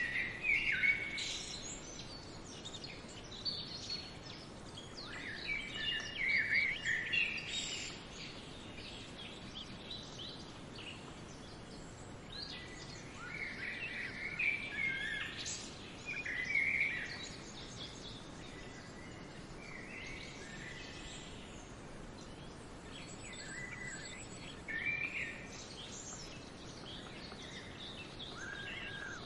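Small birds chirping and calling in short scattered clusters, over a steady faint outdoor hiss.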